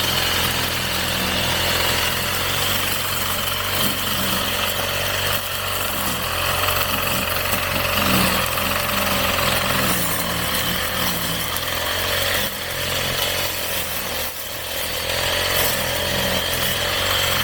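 Gas-powered brush cutter engine running steadily while cutting grass, its pitch wavering slightly as the load changes.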